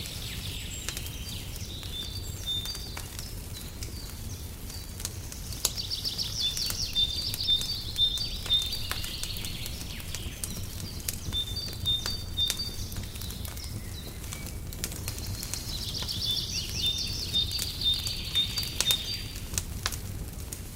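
Songbirds singing in repeated phrases of fast high trills and chirps, over scattered pops and crackles from a wood fire and a steady low rumble.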